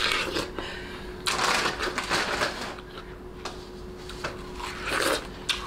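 Crunchy, wet chewing of watermelon, in bursts of crackling bites, strongest a little over a second in and again near the end. A faint steady hum runs underneath.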